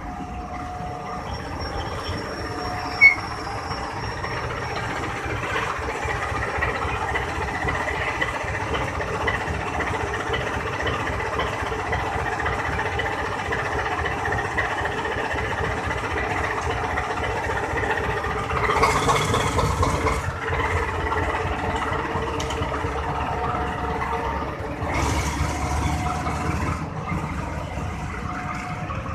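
Train running past a level crossing, with a steady sound of wheels on the rails. There is one sharp clack about three seconds in, and two short rushes of hiss later on.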